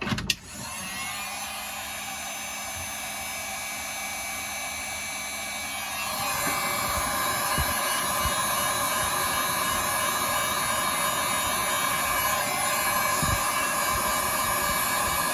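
Heat gun blowing hot air steadily, getting louder about six seconds in, heating the iPhone 8 home button before it is transferred.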